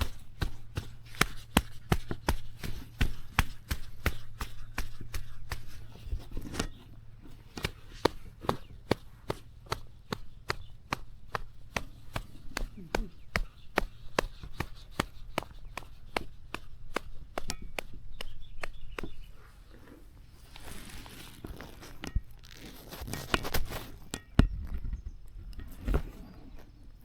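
Rapid repeated chopping or cutting strokes, several a second, easing off about two-thirds of the way through; then two longer rustling sweeps and a few dull thumps near the end.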